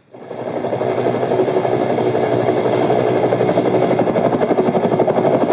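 Helicopter rotor sound fading in over about a second, then holding steady with a rapid, even beating.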